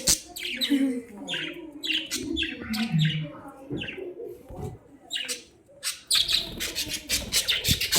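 Budgerigars (parakeets) chirping and warbling in rapid, repeated short notes, busiest near the end.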